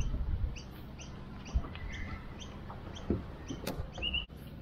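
A small bird chirping over and over, short high chirps about two a second, with a couple of sharp knocks from the boat or gear.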